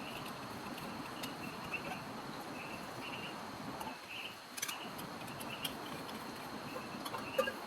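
Steady hiss of rain with intermittent high chirps of insects and a few sharp ticks.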